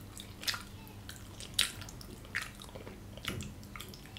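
A mouth chewing a mouthful of gyoza dumplings close to the microphone, open-mouthed: wet, squishy chewing with a few sharp lip and saliva smacks, the loudest about a second and a half in.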